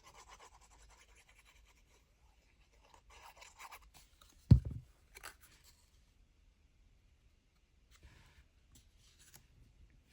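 Index cards and paper rustling and sliding as they are handled on a work table, with one sharp knock about four and a half seconds in and a smaller click just after.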